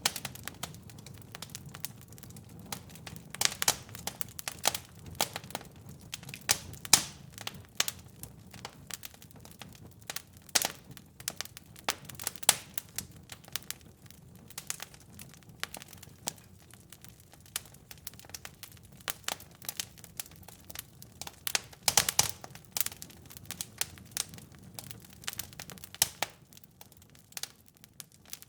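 Wood fire crackling in a fireplace: irregular sharp pops and snaps, some much louder than others, over a soft low rumble of the flames.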